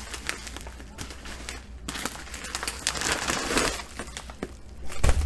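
Packaging being handled and opened, crinkling and rustling with scattered small clicks, and a low thump near the end.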